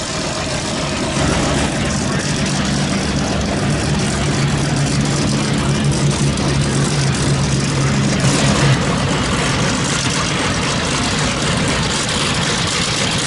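Aircraft piston engines running, a steady low drone over a broad engine-and-propeller noise. About eight seconds in, the low hum fades and the broad noise grows louder.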